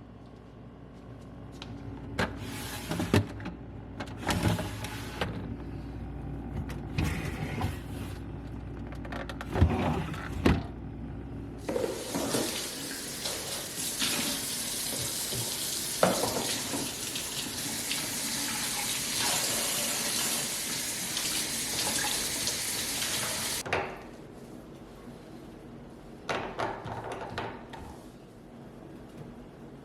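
A few seconds of knocks and handling, then a kitchen tap runs steadily into a sink for about twelve seconds and is shut off suddenly; a few light clicks follow.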